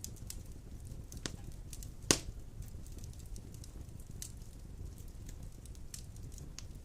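Wood fire of large logs burning in a stone fireplace: a steady low rumble with scattered crackles and one loud pop about two seconds in.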